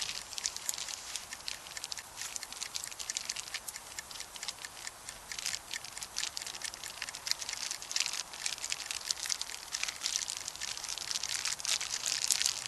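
Wood campfire crackling and popping, a dense irregular stream of small sharp snaps.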